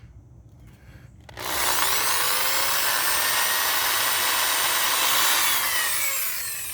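Power drill drilling a hole, starting about a second in, running steadily for several seconds and then spinning down with a falling whine near the end.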